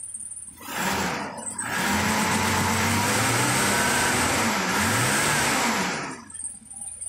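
Mercedes M110 straight-six engine revved for about five seconds, its pitch rising and falling, then dropping back. It starts suddenly about a second in, with a short dip early on.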